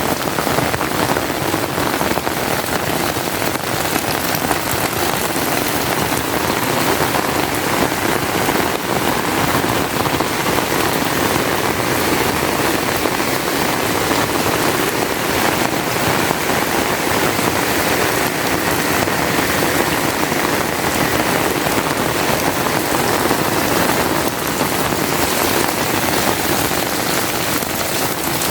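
Heavy rain falling and pattering on surfaces, a dense, steady downpour.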